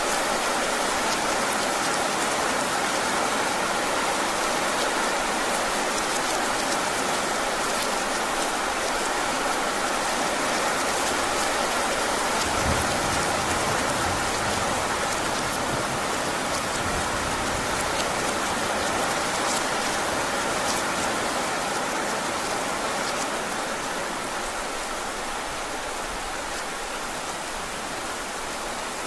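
Heavy rain falling steadily, a dense hiss of drops with faint individual taps, with a brief low rumble near the middle; it eases slightly near the end.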